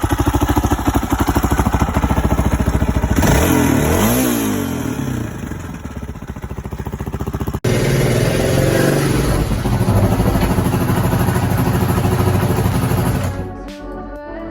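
Suzuki DR650's single-cylinder four-stroke engine running, revved up and back down about four seconds in. The sound drops out for an instant past the middle, the engine runs on, and music takes over near the end.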